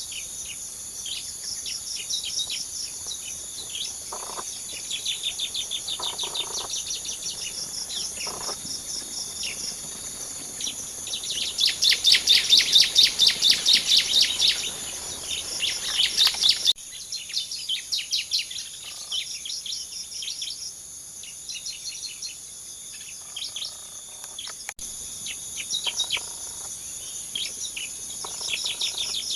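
Small songbirds chirping in rapid repeated series, with a loud fast burst of chirps in the middle, over a steady high-pitched whine of insects.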